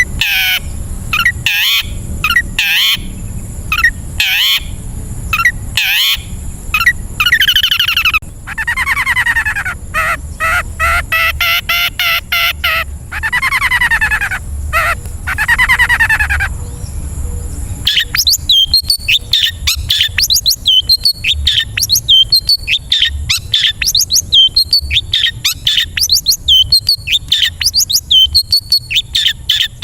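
Long-tailed shrike (cendet) singing a loud, varied mimicking song. It opens with sweeping whistled notes, then gives long harsh notes that rise and fall, and after about eighteen seconds switches to a fast run of short repeated chips, two or three a second.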